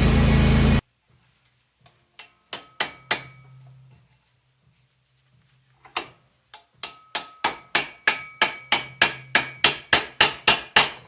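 Hammer blows on steel plate, each strike ringing briefly: three quick blows, a pause, then a steady run of about three blows a second. At the very start a loud steady noise cuts off abruptly.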